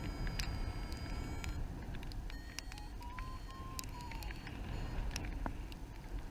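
Wind rushing over the microphone in flight, with scattered sharp ticks. Faint electronic beeps sound in the first second or so, and a short tone steps up and back down in pitch about halfway through.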